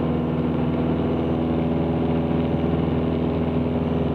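Cessna 162 Skycatcher's four-cylinder Continental O-200 engine and propeller droning steadily in flight, heard from inside the cabin.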